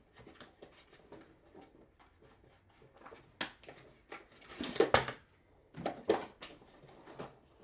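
Handling noise from a child car seat: its plastic shell and strap hardware knocking and clicking in a few separate bursts, the loudest cluster about halfway through.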